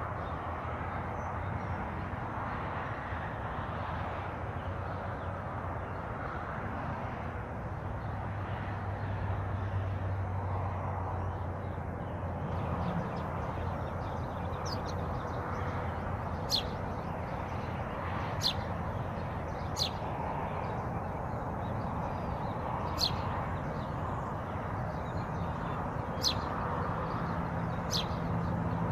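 Songbird calls: short, sharp, falling notes, one every two seconds or so through the second half, over a steady rushing background noise.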